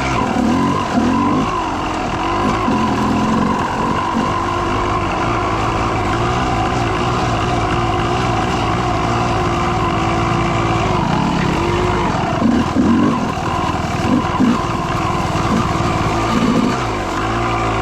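Dirt bike engine running steadily while being ridden on a trail, with short throttle blips in the second half.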